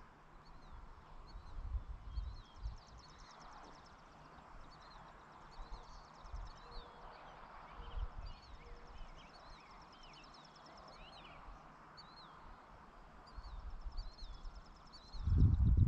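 Outdoor rural evening ambience: many small birds chirping and a repeating high trill, over patchy low rumble. A louder low sound comes in near the end.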